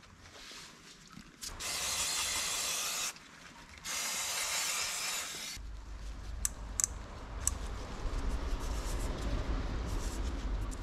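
Two long bursts of pressurised spraying hiss, each about a second and a half, then scattered sharp clicks from hand tools and parts over a low rumble.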